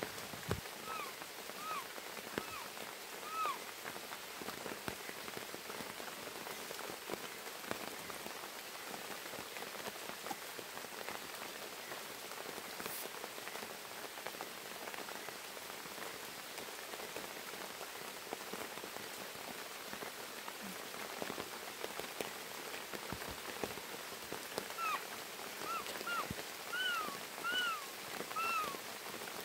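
Steady rain falling, with scattered drop ticks. A few short calls, each rising then falling, come in a quick series near the start and again near the end.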